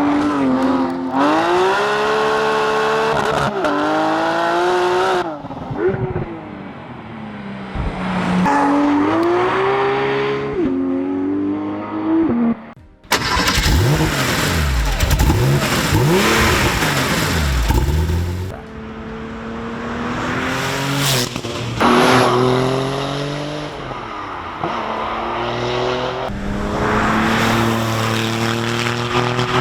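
Sports car engines and exhausts accelerating hard, the pitch climbing and dropping back at each upshift. The sound cuts sharply to a different car about 13 seconds in, which revs and accelerates through its gears the same way.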